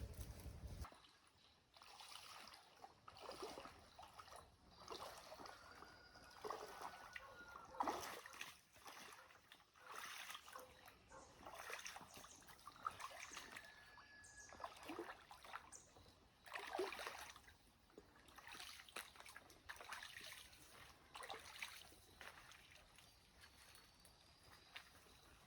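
Faint, irregular splashing and trickling of water, with a few faint high whistled bird notes.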